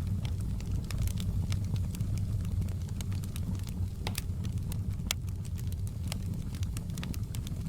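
Wood fire in a fireplace crackling: scattered sharp pops over a steady low rumble of the flames, the loudest pops coming about four and five seconds in.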